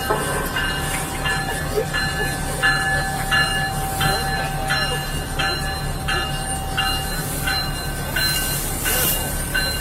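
Railroad crossing warning bell ringing steadily, about one ring every 0.7 seconds, over the steady low rumble of a train passing the crossing.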